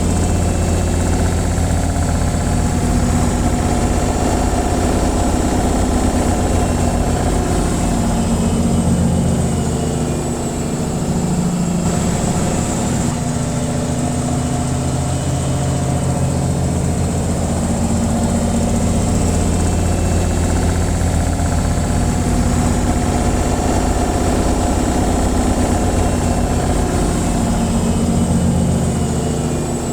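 Washing machine on its spin cycle: a steady motor hum and drum rumble, easing off briefly about ten seconds in and then picking back up.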